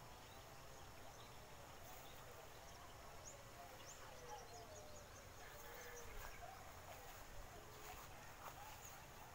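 Faint rural outdoor ambience with scattered distant bird chirps.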